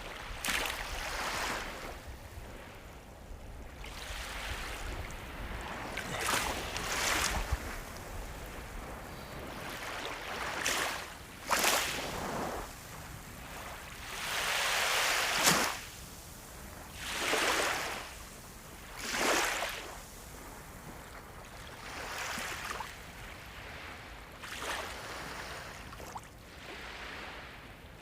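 Ocean waves breaking, each one a rush of surf that swells and fades, coming every two to three seconds over a steady wash of the sea.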